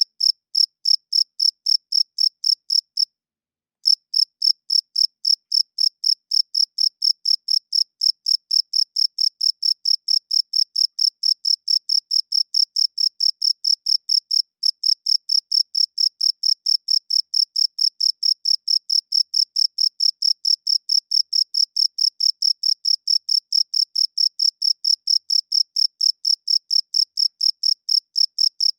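Male cricket chirping: a steady run of short, high-pitched chirps, about four a second, made by rubbing its wings together. It breaks off briefly about three seconds in and then carries on at the same even pace.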